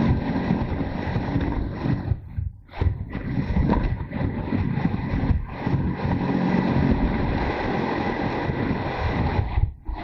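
Wind rushing over the microphone of a camera on a moving motorcycle, with the engine running underneath. The noise drops away sharply and briefly twice, about two and a half seconds in and near the end.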